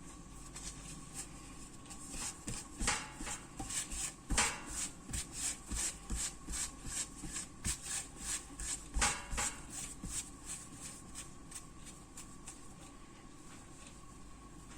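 Hands shaping small portions of bread dough on a work table: a run of soft, quick pats and rubs, about two or three a second, that fades out after about ten seconds.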